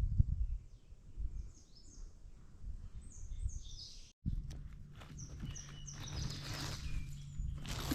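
Birds chirping in short, high, falling calls, over a low rumble in the first half. About four seconds in the sound cuts out for an instant, then the chirps go on over a steady low hum, with a rustle near the end.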